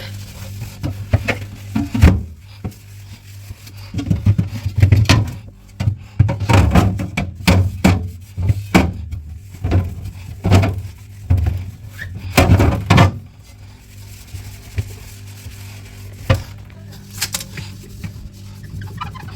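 Repeated knocks and clatter of dishes and containers being handled and set down during fridge cleaning, over steady background music. The knocks come thick between about one and thirteen seconds in, then thin out.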